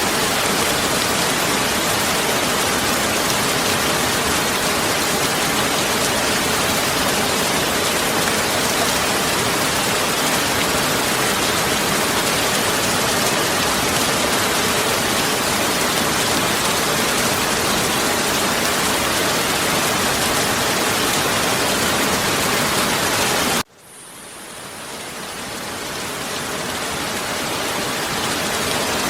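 Heavy rain falling in a steady, dense hiss. About three-quarters of the way through it cuts out suddenly and fades back in over a few seconds.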